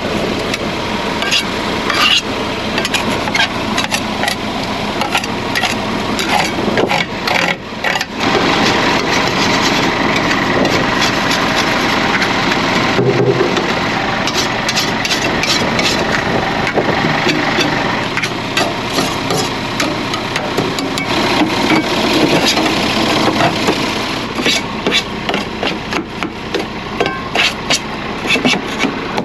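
Truck engine running under many sharp knocks and clicks, over a steady noisy hiss.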